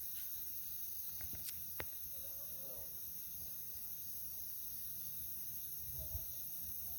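Steady high-pitched hiss of night-time insects, with two faint clicks about a second and a half in.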